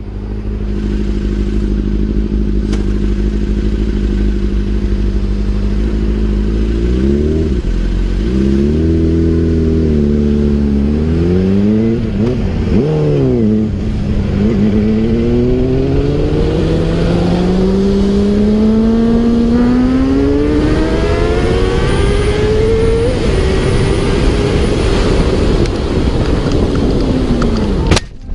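Sport bike engine heard close up from the rider's position: it runs at a steady note, is revved up and down a few times, then climbs in a long rising pull under hard acceleration with a gear change. Near the end the note falls away and cuts off abruptly as the bike goes down.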